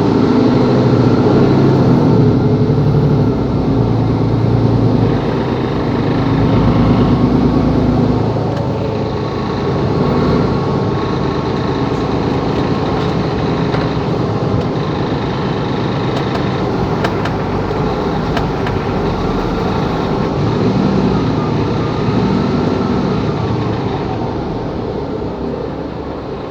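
Mercedes-Benz Capacity L articulated diesel city bus running, louder for the first eight seconds or so and then easing to a steadier, lower hum. A faint whine rises and falls near the end.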